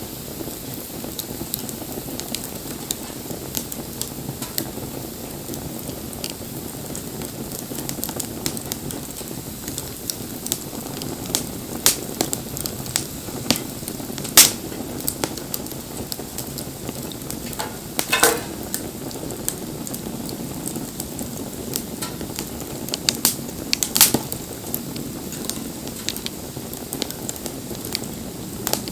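Wood bonfire crackling: a steady low hiss and rustle of burning wood with frequent sharp snaps and pops, and a handful of louder pops scattered through.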